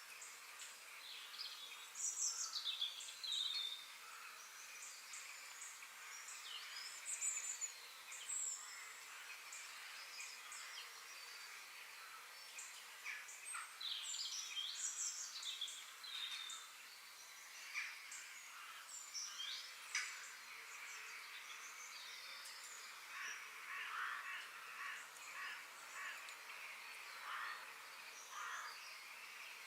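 Several wild birds calling and singing together, short chirps and quick whistled rising and falling notes overlapping throughout, over a steady high hiss of outdoor ambience.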